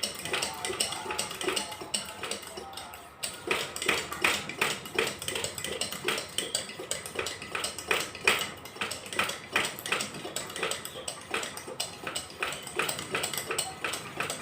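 The built-in hand air pump of a Trainite 350 c.p. brass kerosene pressure lantern being stroked steadily, with a regular metallic clack about three times a second that grows louder a few seconds in. The fuel tank is being pressurised after the generator has been pre-heated, ready for the valve to be opened to light the mantle.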